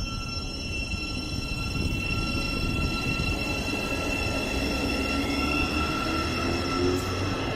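Thameslink Class 700 electric multiple unit moving along the platform: a steady high-pitched whine over the continuous rumble of its wheels on the track.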